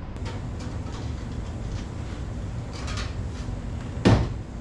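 Handling of an Aprilaire steam humidifier's cabinet: a few faint clicks, then one loud knock about four seconds in, over a steady low hum.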